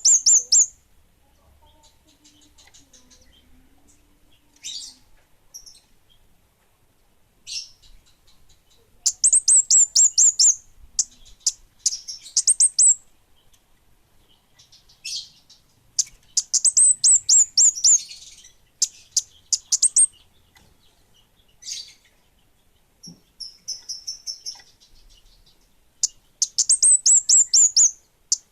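Kemade bunga api songbird singing vigorously: bursts of rapid, high-pitched descending notes every few seconds, with short single chips between the bursts.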